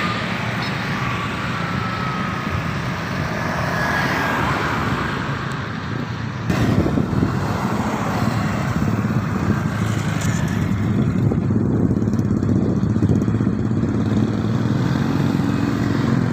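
Motor-vehicle noise, engines running steadily, that turns louder and denser suddenly about six and a half seconds in.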